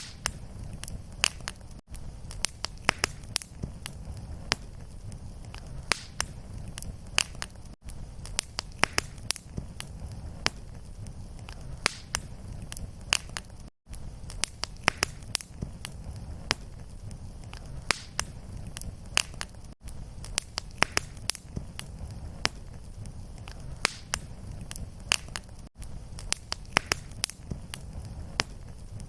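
Fireplace fire burning with a steady low rumble and frequent sharp crackles and pops. The sound briefly drops out about every six seconds, where the fire recording loops.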